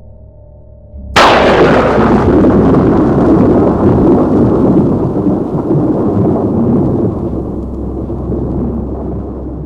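A sudden sharp crack about a second in, followed by a long rolling rumble that slowly fades: a thunder- or blast-like boom sound effect, over a low steady drone.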